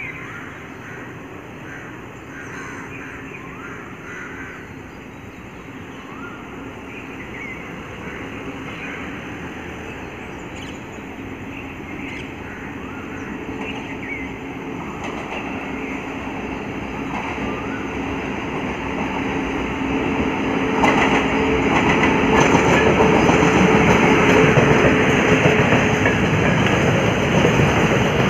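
Container freight train hauled by a WAG-9 electric locomotive, approaching and passing. It grows steadily louder, with a faint steady hum over the rumble of wheels on the track. From about two-thirds of the way in it is much louder as the locomotive and the first container wagons run by.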